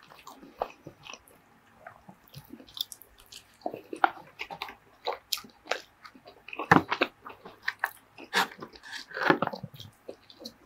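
Close-miked eating sounds: chewing and wet mouth noises from a mouthful of kalua pork, with irregular small clicks and smacks, and a plastic fork picking through the pork and rice in a foam takeout box.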